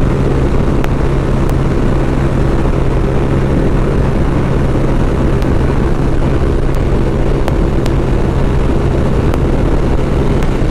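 TVS Apache RTR single-cylinder motorcycle engine running at high revs at steady pitch while cruising at speed, with heavy wind rush on the handlebar-mounted camera's microphone.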